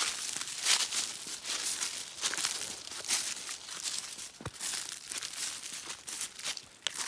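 Footsteps of people walking through leaf litter and brush, a rustling crunch at an uneven pace of about two steps a second.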